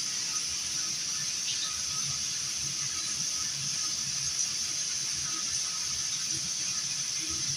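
A steady hiss of background noise, high-pitched and even, with no events in it.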